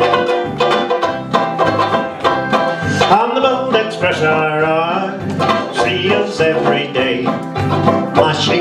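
Live performance of a comic song: a fast-strummed, banjo-like plucked-string accompaniment with quick, even chords, and a held, wavering note that slides up in the middle.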